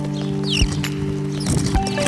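Small birds chirping, with short quick falling calls about half a second in, and scattered sharp clicks, over a steady background of held musical tones.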